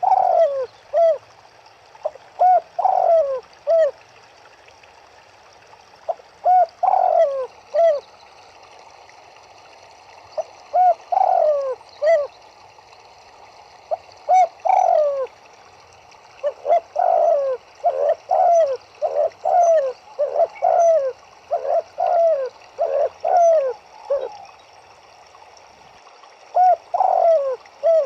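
Turtledoves cooing: short phrases of three to five low coo notes repeat every few seconds, coming thick and overlapping in the middle stretch as more than one bird calls. A steady hiss runs underneath.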